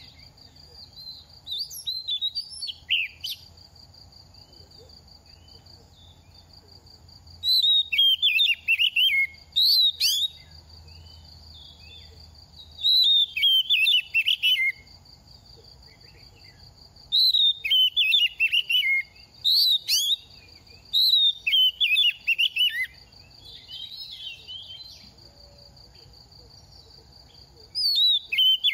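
Oriental magpie-robin singing in short bursts of fast, varied whistled and chirping phrases, a new burst every few seconds, over a faint steady high tone.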